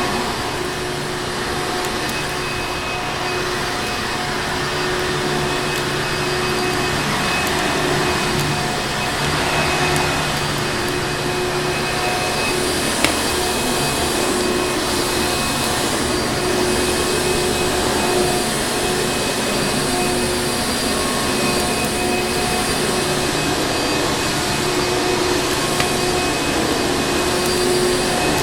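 Vacuum cleaner motor running steadily: a continuous rushing of air with a steady whine over it. A single sharp click comes about halfway through.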